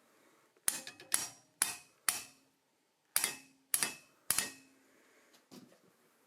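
Blacksmith's hammer striking steel on an anvil in forging: four quick blows, a pause of about a second, then three more, each with a short metallic ring.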